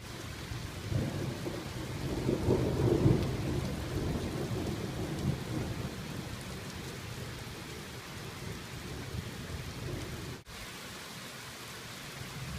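Thunderstorm: rain falling steadily, with thunder rumbling over it in the first few seconds. A brief cut in the recording comes about ten seconds in.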